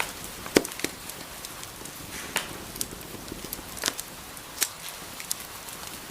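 Wood fire in a fireplace crackling: irregular sharp pops and snaps over a steady soft hiss, the loudest pop about half a second in.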